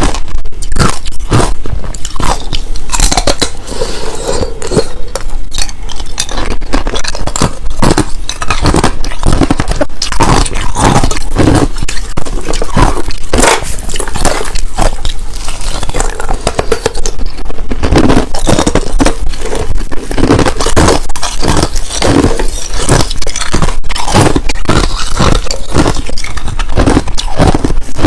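Close-miked crunching of clear and powdery crushed ice being bitten and chewed, with loud, irregular crunches coming several times a second.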